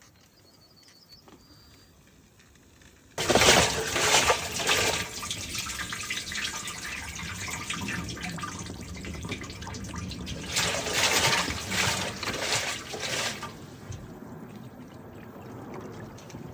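Water gushing out of a Miele washing machine as it is drained by hand after a drain fault. It starts suddenly about three seconds in, runs heavier in two spells, then eases to a steadier trickle near the end.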